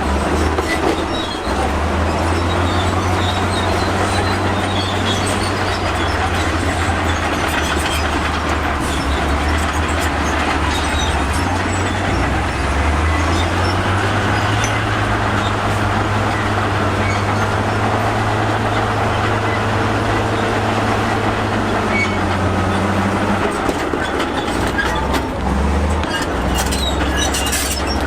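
Crawler bulldozer at work: its diesel engine runs under load with a low note that shifts a few times, over the constant clatter of its steel tracks.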